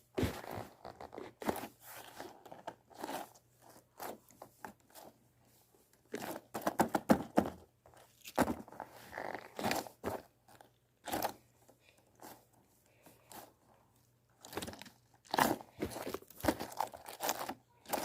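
Slippery slime being squeezed and worked by hand, giving irregular bursts of wet clicking and crackling with short quiet gaps between.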